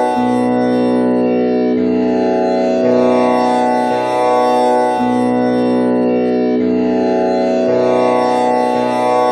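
Tanpura drone with Sa on B and a string tuned to komal Ni, its strings plucked one after another in a repeating cycle. Each note rings on in a dense shimmer of overtones.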